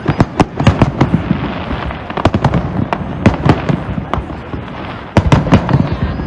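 Fireworks display going off: rapid volleys of sharp bangs and crackles in clusters over a steady rumble, with a short lull about two-thirds of the way through.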